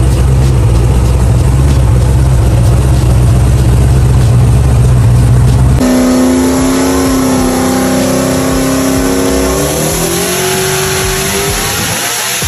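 LS V8 engine of a turbocharged Honda S2000 running on a chassis dyno: a loud, steady low drone, then after a sudden cut a higher steady note that climbs in pitch near the end as the revs rise.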